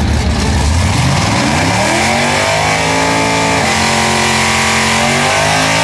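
Drag-racing car engine at the starting line revving up about a second in and held at high revs for a burnout, its pitch holding steady, dipping briefly, then climbing again near the end.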